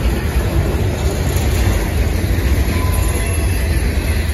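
Double-stack intermodal well cars of a freight train rolling past, a steady rumble of steel wheels on the rails.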